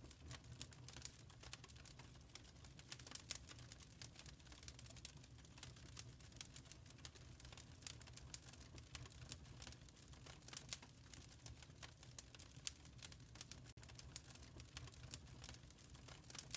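Fire in a fireplace crackling softly: many small irregular snaps and pops over a low, steady rumble.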